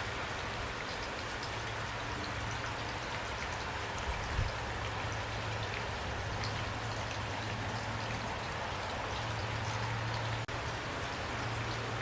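Steady rain falling, an even hiss with individual drops ticking through it and a low steady hum underneath. A brief dip about ten seconds in.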